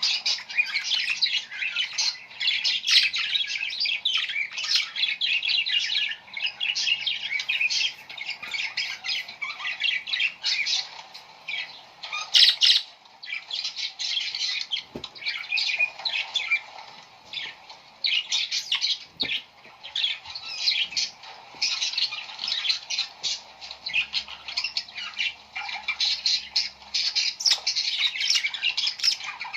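A flock of small birds chirping and calling all at once, a dense, continuous chatter of quick high-pitched notes.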